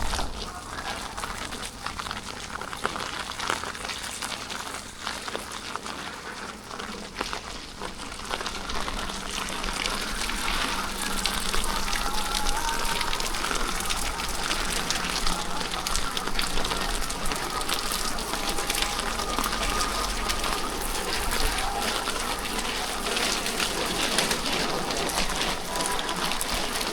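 Steady rain with a dense crackling patter of drops, getting a little louder after about ten seconds.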